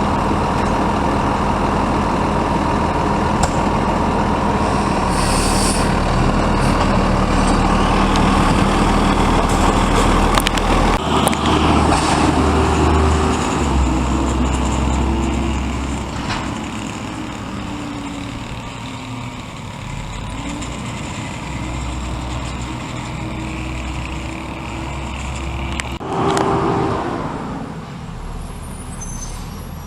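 Garbage truck's diesel engine running steadily, louder in the first half and then easing off, with a brief burst of noise near the end.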